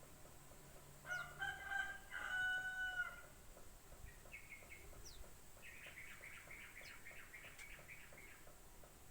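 A rooster crows about a second in, the loudest sound, a two-part call ending on a long held note. Afterwards a small bird gives a few short high chirps, then a fast run of chirps.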